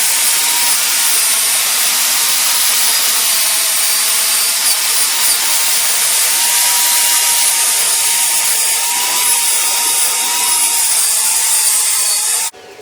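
Stick-welding arc burning a 7018 electrode on a motorcycle frame, a loud, steady sizzling hiss that cuts off suddenly near the end as the arc is broken.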